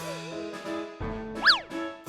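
Cheerful children's background music on keyboard, with a warbling tone early on and a quick cartoon 'boing' sound effect, a sharp slide up then down in pitch, about one and a half seconds in.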